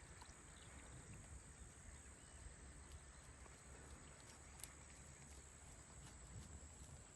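Near silence: faint outdoor ambience with a low rumble, a steady faint high-pitched tone and a few scattered soft ticks.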